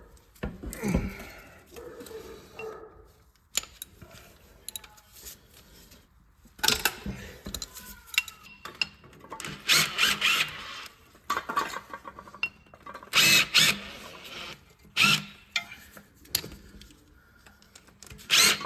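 Hand ratchet and socket loosening and backing out bolts on an engine bracket, clicking in several short bursts with pauses between, along with clinks of metal tools.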